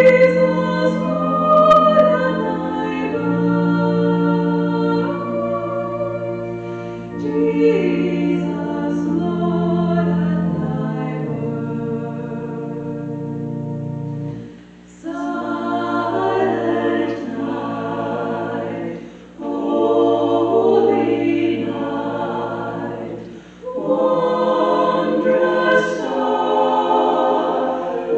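A choir singing a hymn over sustained low accompanying notes, with short breaks between phrases.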